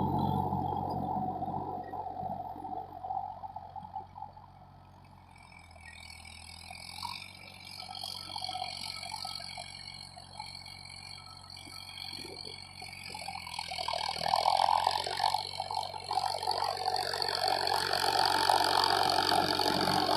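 Farmtrac 60 PowerMaxx tractor's diesel engine running steadily under load while pulling a disc harrow. It fades away over the first few seconds, stays faint, then grows louder again from about two-thirds of the way through.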